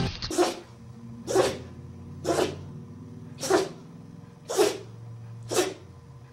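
Dog sneezing over and over, six short, sharp sneezes about a second apart.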